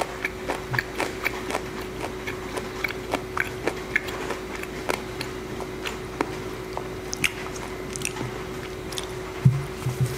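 A person chewing food close to the microphone, with irregular wet mouth clicks and smacks. A louder low thump comes near the end. Rain sounds faintly in the background.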